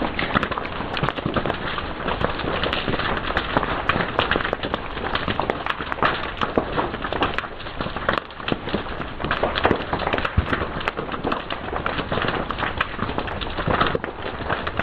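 Fire crackling and popping: a dense, unbroken stream of sharp pops and snaps.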